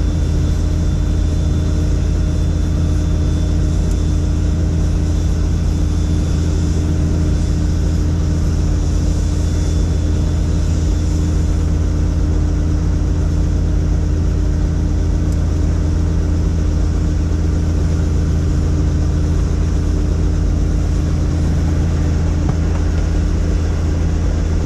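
Helicopter's turbine engine and rotor running with a loud, steady drone, heard from on board the aircraft.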